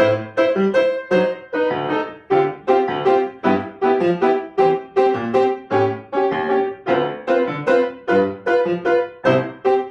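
Solo piano playing a piece in a steady rhythm, with repeated struck chords and a bass line, each note decaying after it is struck.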